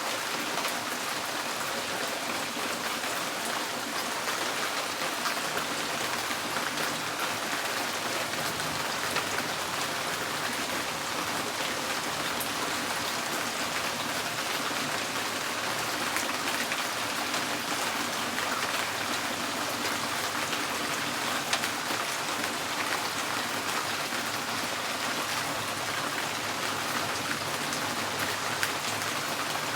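Steady rain drumming on a tin porch roof: a dense, even patter with individual drops ticking through it.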